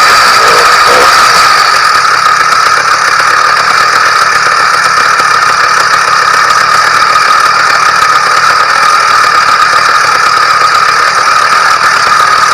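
YD100 two-stroke bicycle kit engine running steadily at a constant speed, with a rattle. It is freshly ported and on its first run of break-in.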